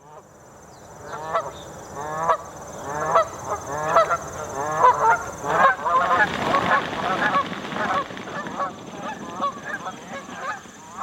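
A flock of Canada geese honking: single honks about once a second at first, then many overlapping honks in the middle before thinning out again.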